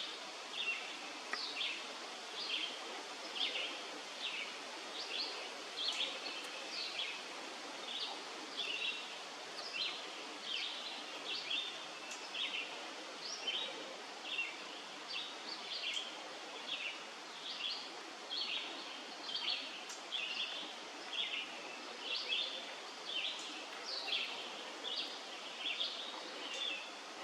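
Wild birds chirping: a steady stream of short high notes, about one to two a second, over a faint steady outdoor hiss.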